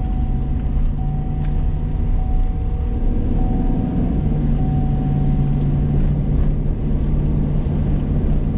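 Vehicle engine and road noise heard from inside the cab while driving: a steady low drone.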